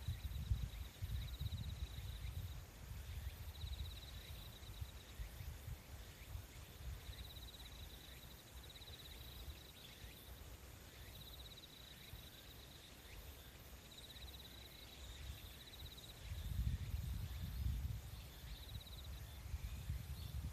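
Nature ambience: a high insect trill that comes in short spells about every three to four seconds, over a low rumble that swells near the end.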